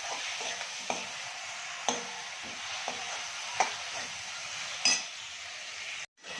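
Food sizzling in a frying pan as it is stir-fried, with a utensil scraping and knocking against the pan every second or so. The sound cuts out briefly near the end.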